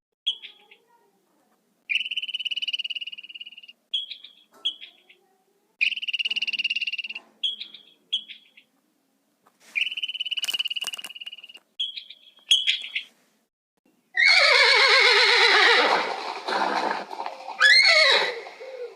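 A series of short, high, buzzy animal calls, some held for a second or two, with gaps between them; then, about two-thirds of the way in, a horse whinnying loudly, its pitch falling, followed by a second shorter neigh near the end.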